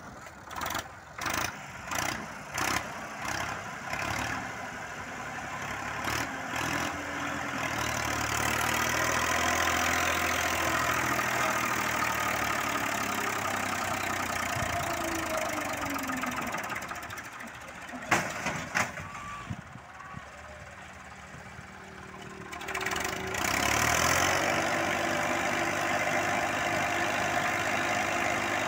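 A 1985 model 240 tractor's diesel engine working under a load of about three tons, pulsing at first, then running hard with its note rising and falling. Two sharp clacks about eighteen seconds in, a quieter stretch after them, then the engine loud and steady again from about twenty-three seconds.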